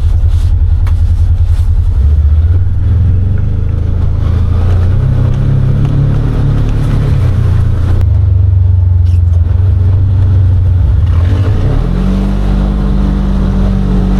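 Side-by-side UTV engine running while driving, its pitch shifting up and down a few times, then rising to a higher steady drone near the end.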